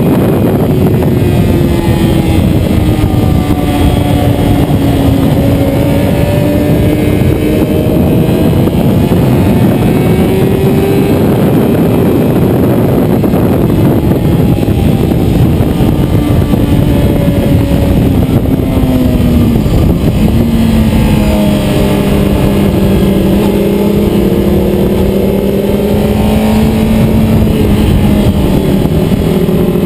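Racing motorcycle engine running hard at speed, its pitch rising and falling as it accelerates and slows. There is a sharp drop about two-thirds of the way through, then it climbs again.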